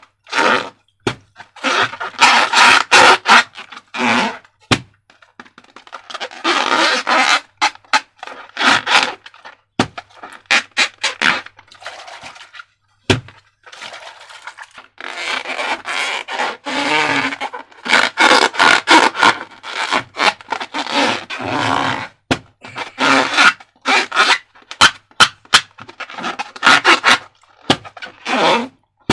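Slime being squeezed out and worked by hand: sticky crackling and clicking squelches in bursts of a second or a few seconds, separated by brief silences.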